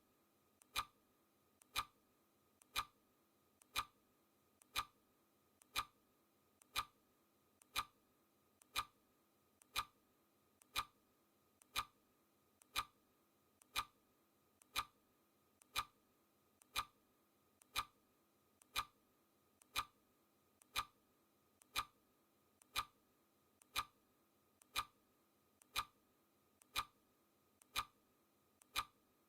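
Clock ticking steadily, one tick a second, each tick a faint click followed closely by a sharper one.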